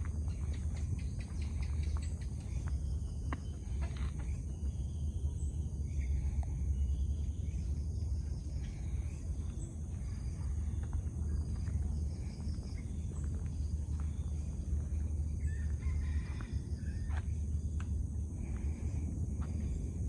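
Outdoor trail ambience: insects buzz steadily at a high pitch, birds chirp briefly now and then, and a constant low rumble sits underneath, with a few light clicks scattered through.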